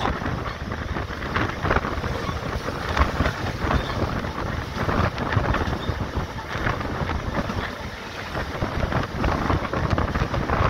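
Wind rushing over the microphone with the running noise of a MEMU electric train moving along the track.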